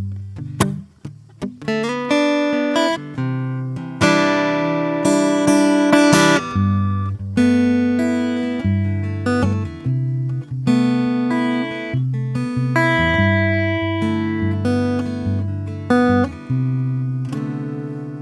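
Acoustic guitar played fingerstyle, plucked notes and chords ringing out one after another in a slow, gentle improvisation.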